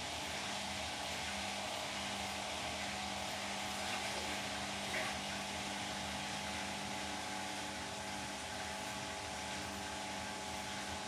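Beko WTK104121W washing machine running on its delicates programme: a steady motor hum and whine over the drum's drone, with a couple of small ticks about four and five seconds in.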